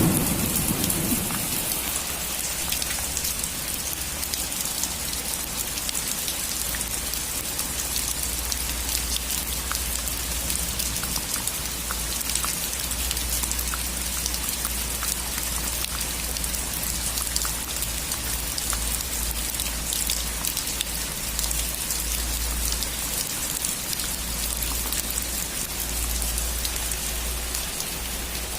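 Steady heavy rain falling on a roof, with many individual drops ticking. The tail of a thunder rumble dies away in the first second or two.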